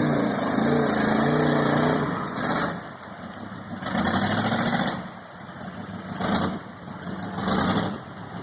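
Engine of a 2.5-ton mud truck on 44-inch bogger tyres, running hard with a wavering pitch, then revved in four short bursts and dropping back toward idle between them.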